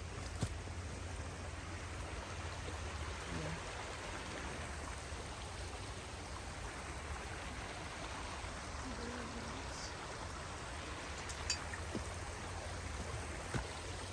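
Stream water running steadily, with a few light clicks or knocks near the end.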